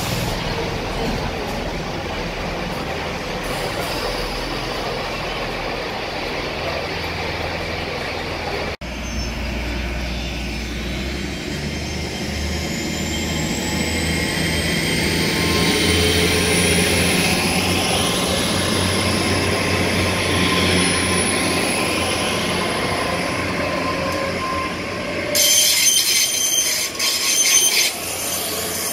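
A GWR Turbo diesel multiple unit running at the platform with a low engine rumble. Then a GWR Hitachi Intercity Express Train pulls away past the platform end, its traction whine rising and then holding steady. Loud wheel squeal comes in near the end as the carriages roll through the curve.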